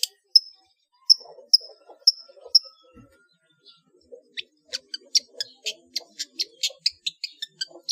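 Long-tailed shrike (cendet) singing: five sharp high notes about half a second apart, then after a short pause a fast run of harsh, clicking chatter notes.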